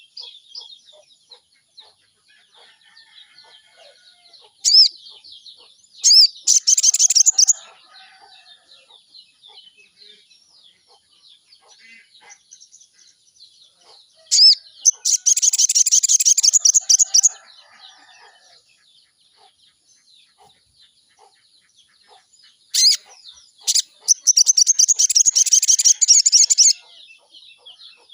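Sogon bird singing: three loud bursts of fast, high-pitched trilling, each opened by a short sharp note or two, with faint chirps of other birds in the gaps.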